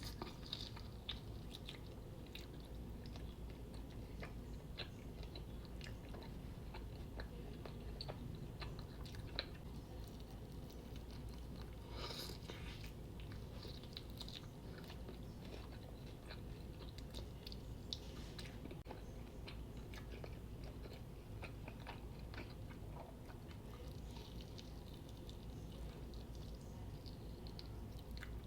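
A person chewing and biting into chicken wings close to the microphone: many short wet mouth clicks and bite sounds over a low steady hum.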